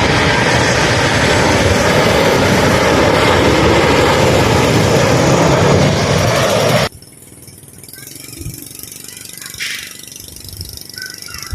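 Loud, steady engine roar of an airliner passing close by, which cuts off abruptly about seven seconds in, leaving a much quieter background with a few faint knocks.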